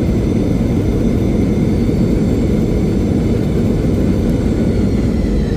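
Cabin noise aboard a Boeing 717-200 during landing rollout: a steady loud rumble from the rear-mounted Rolls-Royce BR715 jet engines and the airframe, with a faint high engine whine over it.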